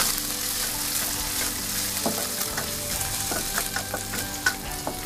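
Small anchovies frying in hot oil in a steel wok: a steady sizzle with many quick crackles and pops, stirred with a wooden spatula.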